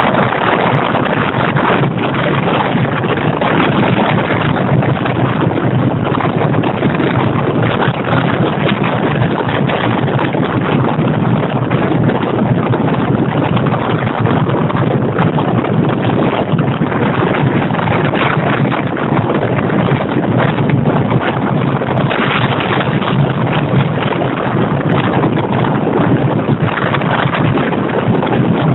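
Steady wind rushing over the microphone of a phone carried on a moving motorcycle, mixed with the motorcycle's running and road noise.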